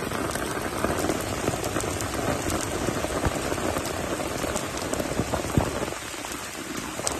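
Steady rain falling, an even hiss with scattered individual drop hits, easing slightly in level near the end.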